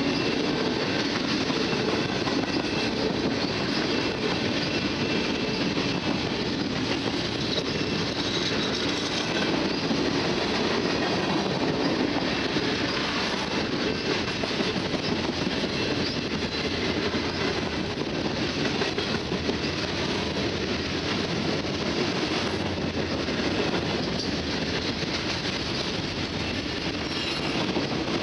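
Norfolk Southern freight train's tank cars and gondolas rolling past close by: a steady rumble and clatter of steel wheels on the rails.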